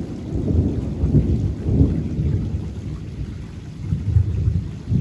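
Loud thunder rumbling low and rolling, swelling about a second in and again near the end.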